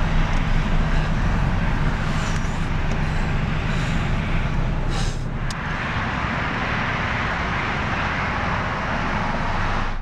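A car engine idling, heard from inside the cabin as a low steady hum. About halfway through there is a short click, and a steady outdoor hiss takes over.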